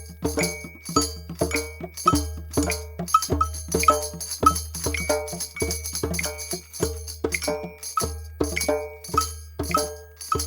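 Drums beaten together in a steady rhythm of about two strikes a second, each stroke with a deep low boom.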